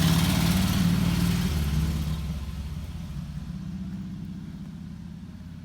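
A vehicle engine running close by, loudest at the start and fading steadily over the next few seconds as it moves away.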